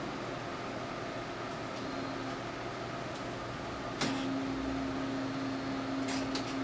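Inkjet printer loading after power-on: a steady mechanical hum, then a click about four seconds in as a motor starts and runs steadily, with a few light clicks near the end.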